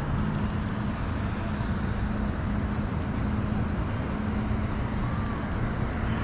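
Minn Kota Terrova electric trolling motor running, a steady hum over a constant wash of noise that sets in at the start.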